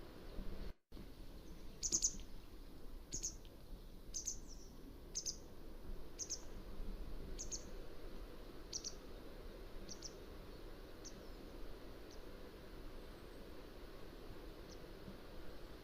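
Mountain wagtail giving a series of short, sharp, high-pitched call notes, about one a second, growing fainter and sparser towards the end. The sound drops out completely for a moment just before the calls begin.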